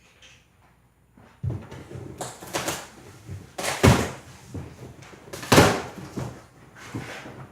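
Knocks and scrapes of a large cardboard mower box being handled and opened: a short quiet start, then a run of irregular bumps and rustles, two of them louder than the rest.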